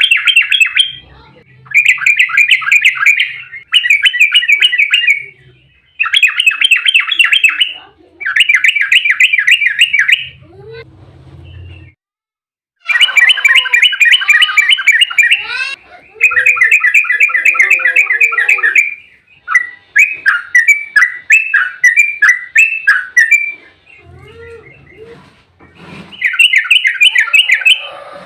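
Yellow-vented bulbul (trucukan) singing its fast 'ropel' chatter: rapid runs of quick repeated notes in bursts of one to four seconds, broken by short pauses.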